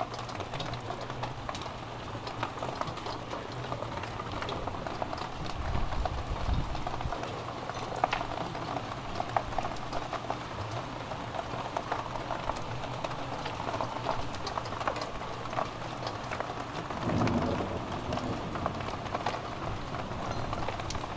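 Steady heavy rain pouring down, with single drops ticking and splashing close by; low rumbles swell about six seconds in and again around seventeen seconds.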